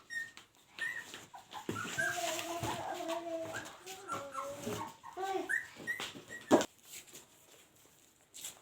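Puppies whining and squealing: short high squeaks and longer wavering whines, with a sharp knock about six and a half seconds in.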